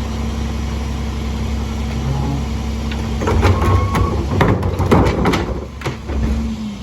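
Mack LE garbage truck's diesel engine idling, with a run of knocks and clatter about three seconds in; near the end the engine note drops.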